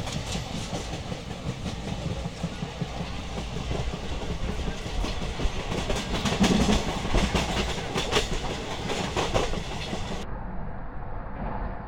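Passenger train running along the rails, heard from its open doorway: a steady rolling noise with wheels clacking over rail joints. The clacks come thickest between about five and nine seconds in.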